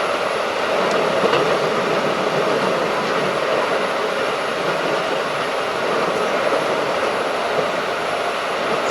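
Keikyu 1500 series field-chopper electric train running steadily: an even roar of wheels on rail and car body, with a faint steady high-pitched tone above it.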